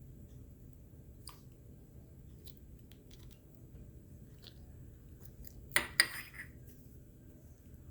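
Slime being squeezed and handled, giving faint scattered clicks and pops, with two loud sharp pops close together about six seconds in.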